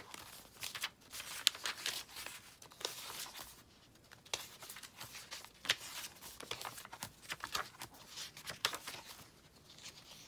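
Paper pages of a handmade junk journal rustling and crinkling as they are turned and handled, with irregular crisp crackles and snaps of stiff paper.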